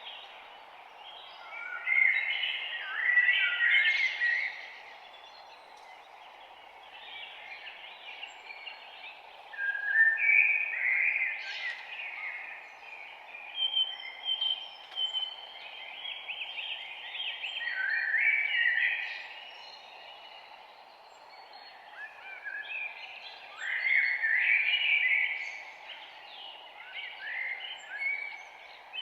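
Several songbirds singing in bursts of quick, chirping phrases over a steady background hiss of forest ambience.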